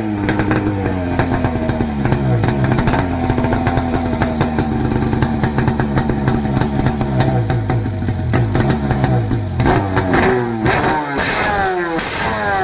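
Sea-Doo jet ski's 951cc two-stroke twin engine running: its pitch falls back to a steady low idle, then it is revved up twice near the end, each time falling away again.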